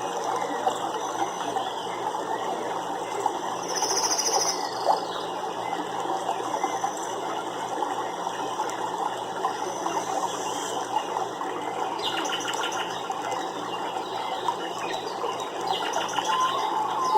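Nature ambience: a steady rush of running water, with a short high trill about four seconds in and bursts of quick high chirps in the second half.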